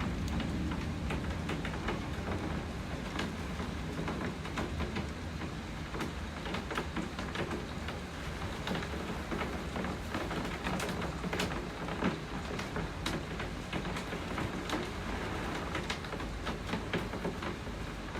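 Steady heavy rain hissing, with many individual drops ticking sharply on a nearby hard surface. A low rumble fades away over the first few seconds.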